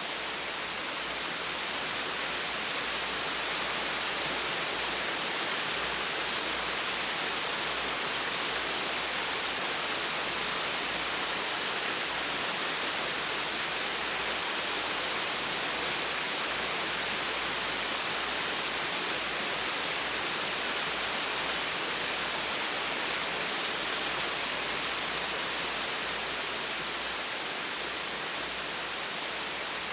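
Gentle waterfall splashing steadily: an even, unbroken rushing of falling water.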